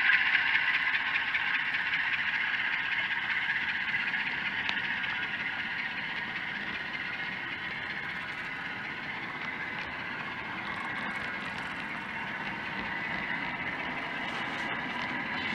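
Sound effects from an ESU sound decoder in an HO scale U23B model diesel, played through its small speaker: a hissing noise that fades over the first several seconds, then settles into a quieter steady sound with a faint hum.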